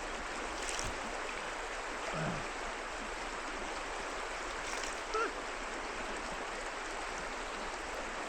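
River water flowing steadily, a continuous even rush, with a couple of small brief sounds over it about two and five seconds in.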